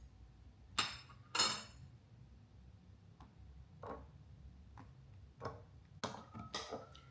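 Kitchenware clatter: glass and containers clinking and knocking about half a dozen times while bone broth is handled and poured, the loudest knock about a second and a half in and a short ringing clink near the end.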